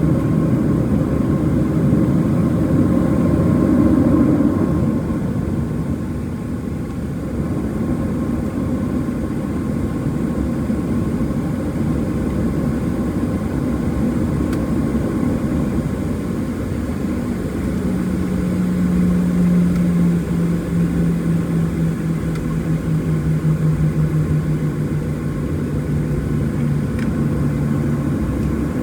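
Cabin noise inside a Boeing 737-700 with its CFM56-7B turbofan engines running, a steady roar of engine and airflow noise. A low droning tone comes in about two-thirds of the way through and sinks slightly in pitch.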